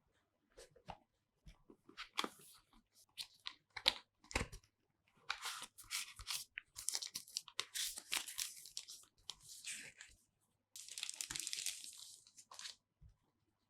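Phone box packaging being handled and torn open: scattered light clicks and taps at first, then several seconds of tearing and crinkling from about five seconds in until near the end.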